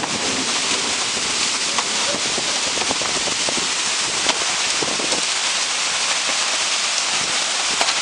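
Heavy rain pouring down in a steady hiss, with scattered drops ticking close by.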